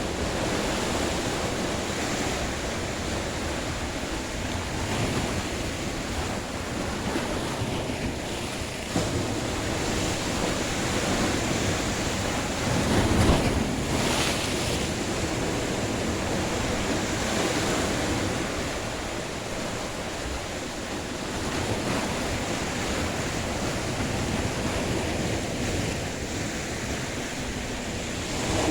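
Sea waves breaking and washing ashore in a steady rush, with one louder wave about halfway through.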